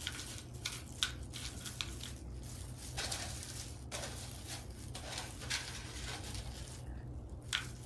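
Faint clicks and scrapes of a bowl and utensils being handled while leftover chocolate mixture is poured and scraped out, over a steady low hum.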